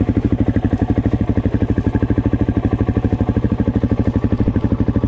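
Suzuki dirt bike engine idling steadily, an even rapid beat of about a dozen pulses a second with no revving.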